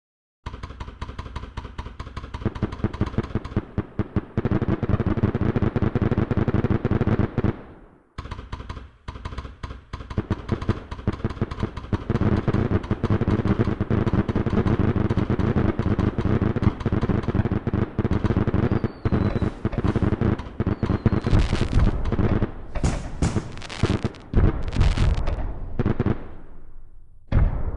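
Fireworks going off in rapid, continuous volleys of cracks and bangs, dipping briefly about eight seconds in and then resuming. Louder separate bangs stand out in the later part.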